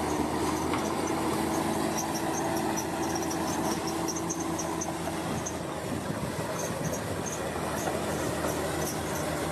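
Heavy construction machinery running steadily, a constant engine drone under dense mechanical noise, with faint high squeaks or clinks scattered throughout.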